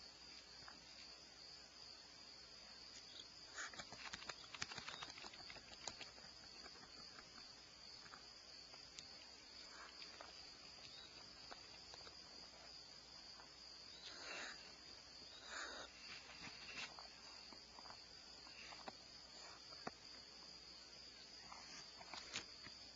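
Faint, steady insect chorus of crickets trilling, with scattered clicks and a few short rustling bursts over it.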